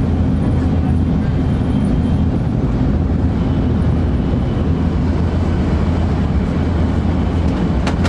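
Steady low rumble of a 500 Series Shinkansen running at speed, heard inside the passenger cabin. A couple of light clicks come just before the end.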